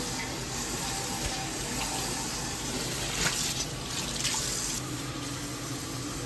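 Kitchen tap running water into a sink during washing-up, with a couple of brief knocks about three and four seconds in.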